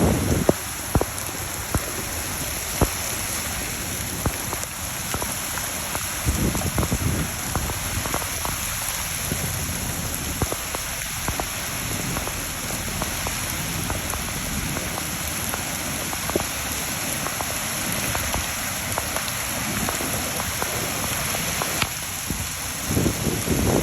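Steady rain falling, with many scattered sharp drops hitting a nearby surface. A low rumble comes in about six seconds in and again near the end.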